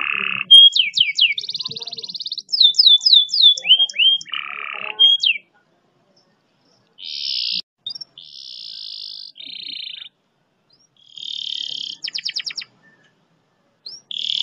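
Domestic canary singing in phrases: very rapid rolls and trills, quick falling whistled sweeps and buzzy notes, with two short pauses between phrases. This is a long, fast-rolling song of the kind used as a master song for tutoring other canaries.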